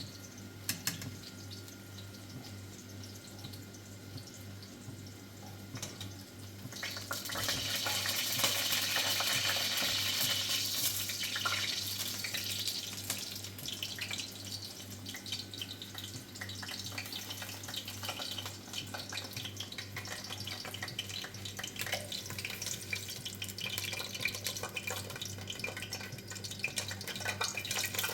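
Water running and splashing from a tap or pipe, starting about seven seconds in and continuing, over a steady low hum.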